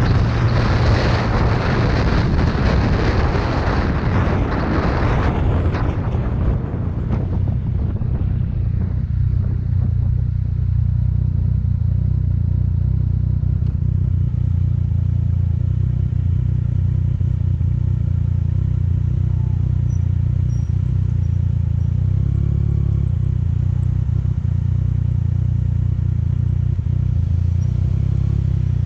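2014 Yamaha FZ-09's three-cylinder engine. For the first six seconds or so a loud rush of wind and road noise covers it, then dies away, and the engine idles steadily.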